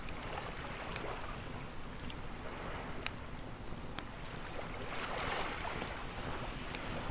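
Campfire crackling with a few sharp pops over the steady wash of ocean waves, one wave swelling up about five seconds in.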